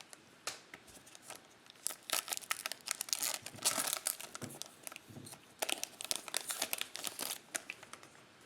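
Plastic foil wrapper of a trading card pack crinkling and tearing as it is handled and ripped open, in dense crackly bursts through the middle of the stretch.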